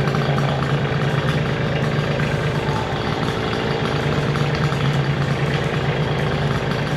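An engine running steadily at constant speed with a deep, even hum.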